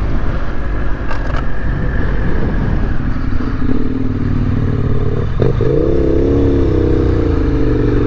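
Adventure motorcycle engine running at low speed over a broad low rumble of wind on the microphone. About halfway through, the engine note rises, then holds a slightly wavering pitch.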